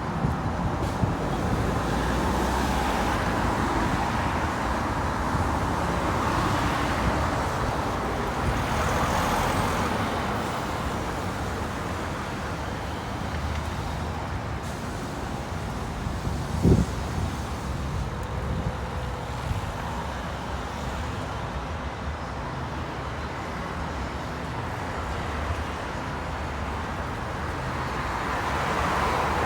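Road traffic going by: cars and buses passing in slow swells of engine and tyre noise, with one short sharp knock a little past halfway.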